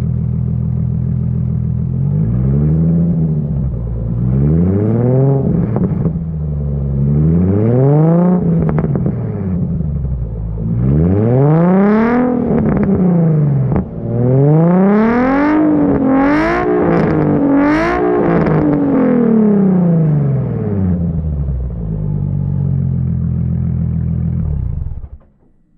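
Nissan 350Z's 3.5-litre V6 through a Tomei aftermarket exhaust, idling and then revved in a series of throttle blips, several in quick succession near the middle, with a few sharp cracks among them, before settling back to idle. The engine is switched off near the end.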